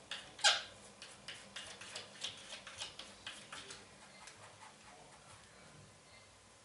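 A quick series of sharp taps and clicks on window glass, about three a second, the loudest about half a second in, dying away after about four seconds.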